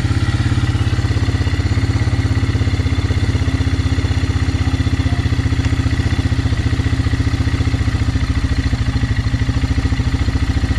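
Quad bike engine idling steadily as it warms up, running with the air box open and the air filter out after the filter was found soaked in oil.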